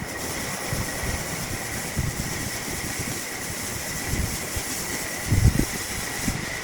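Power tool running steadily with a faint high whine, over irregular low knocks; the loudest knock comes about five and a half seconds in.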